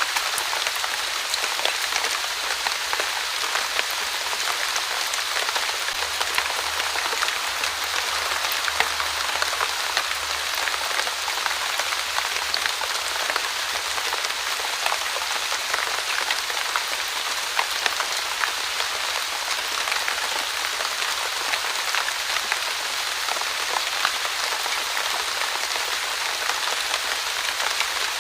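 Light, steady rain falling on a surface: an even hiss dotted with many small, distinct drop ticks.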